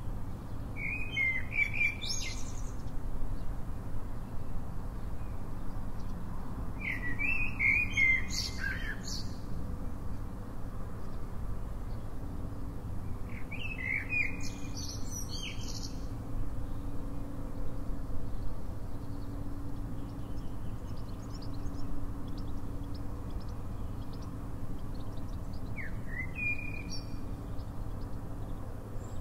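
A songbird singing short chirping phrases four times, each lasting a second or two, over a steady low rumble.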